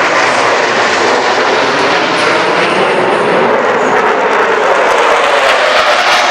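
Jet engines of US Navy Blue Angels F/A-18E/F Super Hornets in flight, a loud, steady rushing noise.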